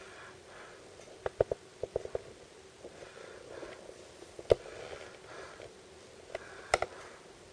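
Surprise packaging being handled: scattered sharp clicks and taps with soft crinkling, in small clusters, the loudest tap about four and a half seconds in.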